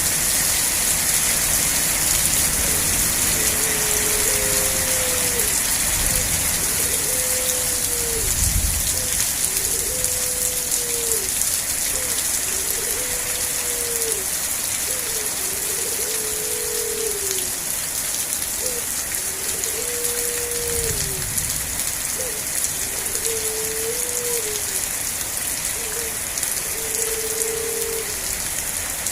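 Steady rain falling, a dense even hiss. Over it, a short low hooting call repeats about every two seconds, and there are two brief low rumbles.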